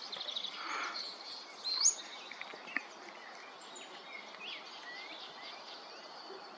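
Several small songbirds chirping and calling at once: scattered short high chirps and whistled notes, the loudest a quick upslurred note just before two seconds in, over a steady outdoor background hiss.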